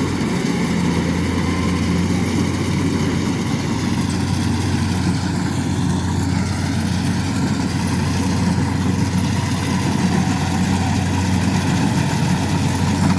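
Heavy farm machinery engine running steadily in a rice harvest, a low, even drone that holds at one pitch.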